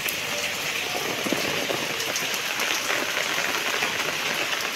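Steady rain falling on puddles and wet ground: an even hiss dotted with many small drop ticks.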